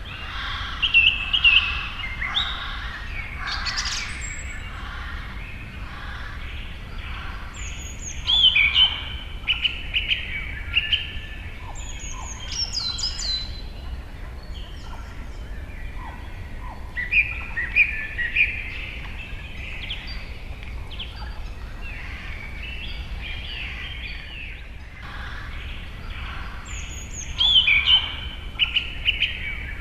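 Several birds singing and chirping, with louder bursts of song about every eight to ten seconds over continuous softer chirps and a steady low rumble.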